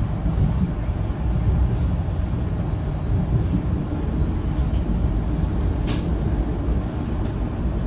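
Passenger train running along the track, heard from inside the car as a steady low rumble, with a few short squeaks and clicks about halfway through.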